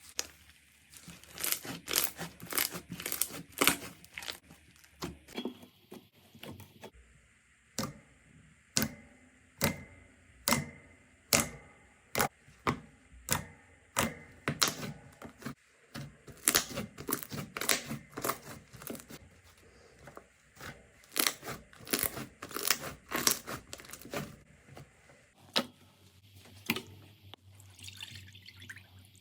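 Slime being squeezed and pressed by hand, giving a run of crisp clicking pops, about one or two a second, over a soft squishy background. The pops pause and the background changes twice, as one slime clip gives way to another.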